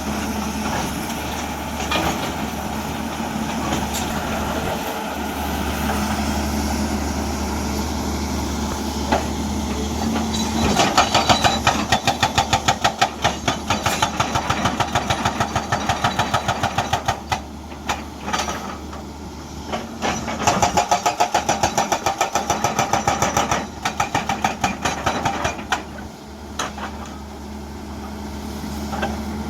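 Hyundai EX210 excavator's engine running steadily. About a third of the way in, its hydraulic breaker hammer starts pounding rock in rapid, even blows, in three runs with short pauses between.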